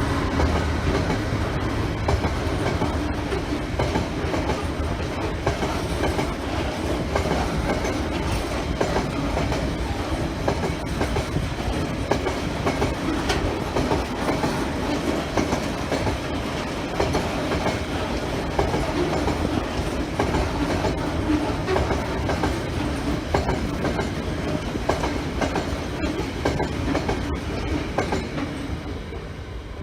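Train wagons rolling past at close range: a steady rumble with rhythmic clickety-clack over the rail joints. The rumble fades away right at the end.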